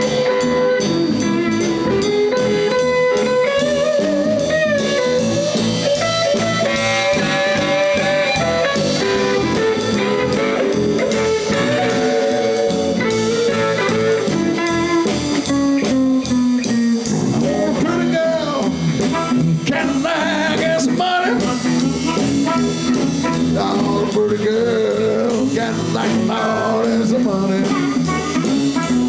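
Live blues band playing, with guitar and drums under a lead melody line that bends in pitch.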